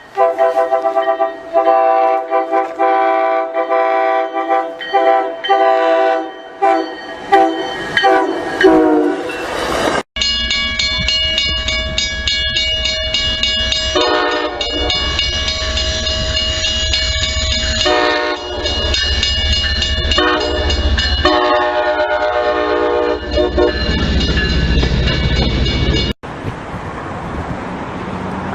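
GE ES44C4 diesel locomotive's multi-chime air horn sounding a rapid series of short blasts, then longer held blasts over the deep rumble of the passing locomotive and train: a horn show at a grade crossing.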